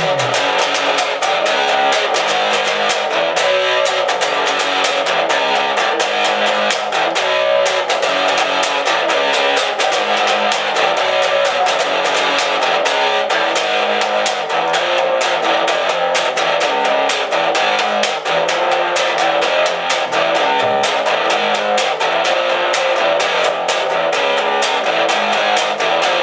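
Rock music with no vocals: distorted electric guitar, bass guitar and drums playing a steady beat.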